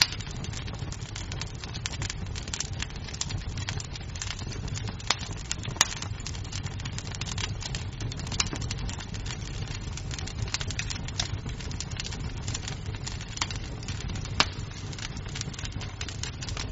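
Wood fire crackling in a fireplace: a steady low rumble with frequent irregular sharp pops, two louder pops about six seconds in and near fourteen seconds.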